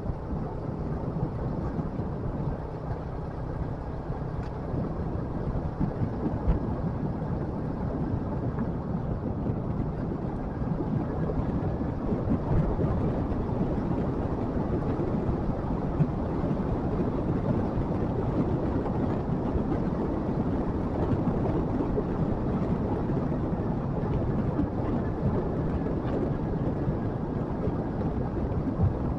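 Motorcycle engine running steadily while riding, with wind rumbling on the microphone, a little louder from about ten seconds in.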